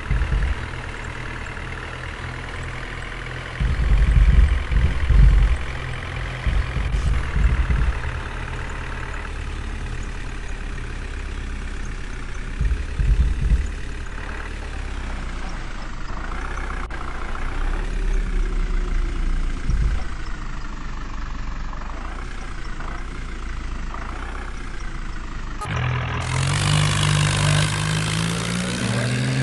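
Tractor diesel engine running steadily, with several heavy low surges along the way. About three-quarters of the way through, the engine note becomes louder and rises in pitch.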